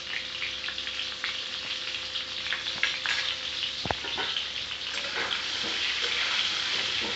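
Stuffed pointed gourds sizzling and crackling as they fry in hot oil in a steel kadhai. In the second half, a metal spatula knocks and scrapes against the pan as they are turned.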